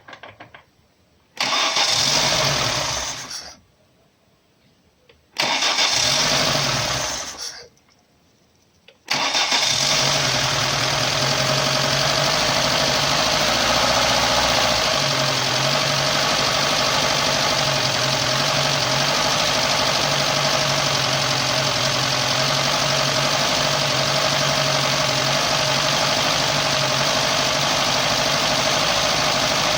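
Lada Niva 21213's 1.7-litre four-cylinder engine being started after its timing-chain damper was replaced: twice it runs for a couple of seconds and dies out, then about nine seconds in it catches and keeps running steadily.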